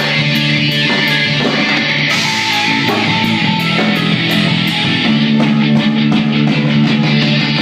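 Rock band playing heavy music: electric guitars holding sustained low chords over bass, with cymbals struck in a steady beat.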